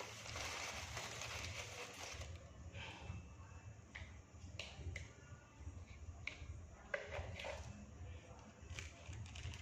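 Scattered small clicks, crunches and rustles of food being handled and eaten, over a steady low hum.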